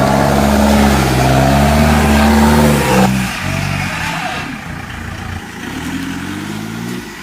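Off-road 4x4's engine revving hard and held at high revs for about three seconds, then dropping off suddenly, with a second climb in revs near the end.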